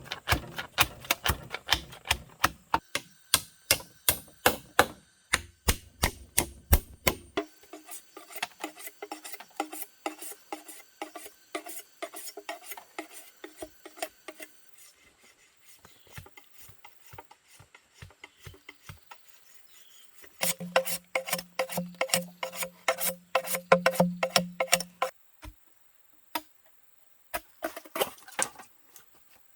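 Rapid, repeated rasping strokes of a tool working wood, about four a second, in several short segments that change abruptly.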